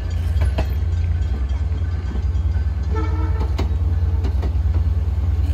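Long Island Rail Road bilevel coaches passing close by: a steady, loud low rumble with scattered sharp clicks from the wheels on the rails, and a brief pitched tone about three seconds in.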